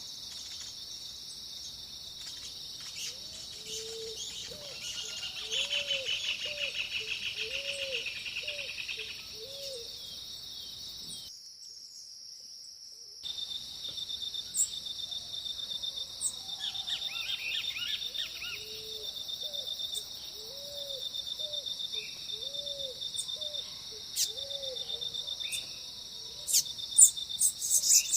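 Dawn chorus: a steady high-pitched insect drone, crickets, runs all through, while birds call over it, one giving a row of low hooting notes about twice a second, heard twice, and others giving quicker, higher chirps and trills. The sound drops out briefly before the middle, and a few sharp clicks come near the end.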